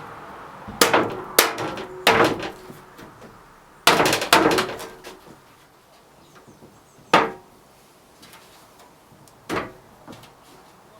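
Hammer blows on a steel truck bumper to knock out a dent. The strikes are irregular: a cluster in the first half, then single blows a couple of seconds apart, several leaving a short metallic ring.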